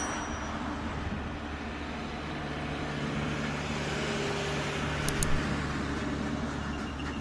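Steady engine rumble with a low hum, and a couple of brief clicks about five seconds in.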